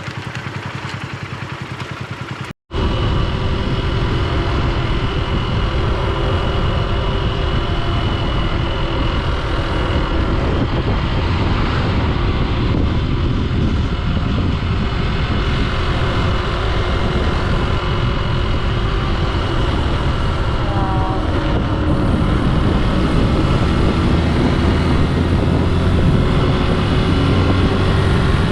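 Honda XR150 single-cylinder motorcycle riding along steadily, its engine note under a dense rush of wind on the microphone. The sound drops out for a moment about two and a half seconds in, then comes back louder and holds steady.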